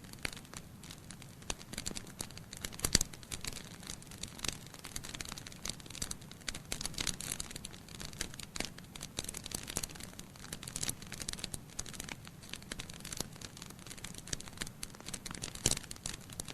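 Wood fire in a fireplace, logs burning with a steady crackle of many small pops over a soft hiss. There is a sharper pop about three seconds in and another near the end.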